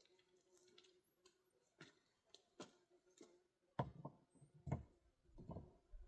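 Faint scattered clicks, with a few soft knocks a little under four and five seconds in.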